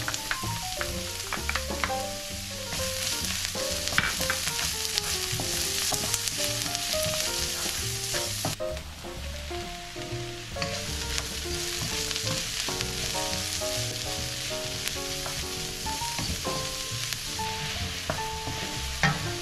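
Onion, garlic and chopped mushrooms frying in hot oil in a wok with a steady sizzle, stirred and scraped with a wooden spatula. The sizzle thins briefly about halfway through, and soft background music plays under it.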